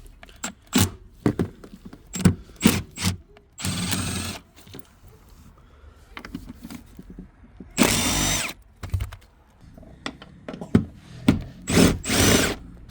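Power drill running in three short bursts of about a second each, undoing the car's 12 mm seat bolts. Sharp clicks and knocks of tools and metal come in between.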